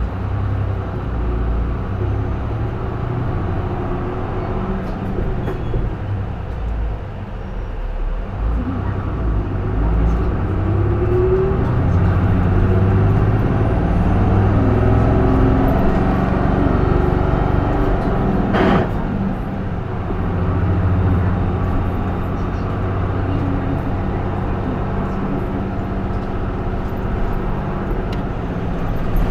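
J-Bus PKG-LV234L2 diesel city bus heard from inside the cabin: the engine pulls under load, its pitch rising as the bus accelerates about a third of the way in, with a single sharp knock about two-thirds of the way through, then settles to a steady run.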